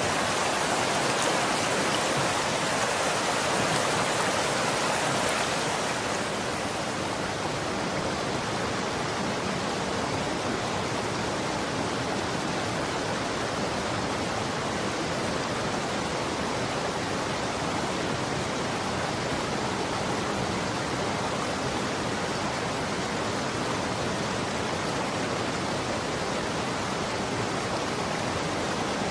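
Running water flowing steadily as an even hiss. About six seconds in it turns a little quieter and duller, then carries on unchanged.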